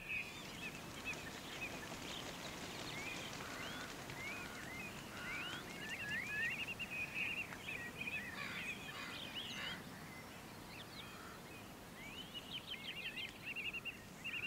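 Birds singing: repeated whistled chirps and short trills over a faint steady hiss.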